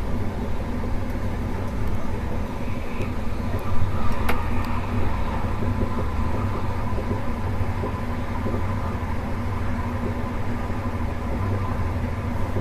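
Running noise of a moving InterCity2 passenger train heard from aboard: a steady low rumble with one sharp click about four seconds in.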